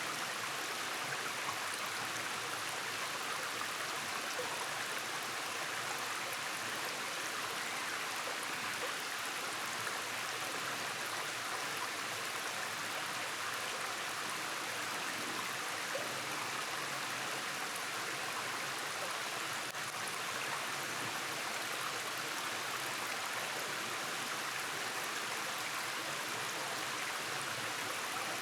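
Rainforest stream running over rocky cascades: a steady, even rush of flowing water.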